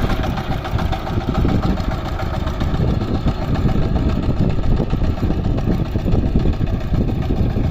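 VST Shakti 130-DI power tiller's single-cylinder diesel engine running steadily, with a fast, even beat.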